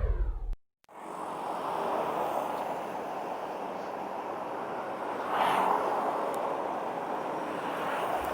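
Steady wind and road noise from riding along a road, with a brief swell about five and a half seconds in. Before it, the tail of a falling intro whoosh ends in a short dropout to silence.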